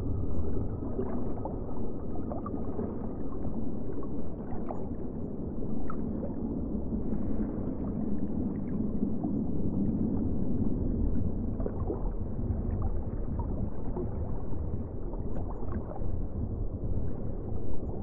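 Sea water rushing and gurgling steadily, a low and muffled sound with scattered faint clicks.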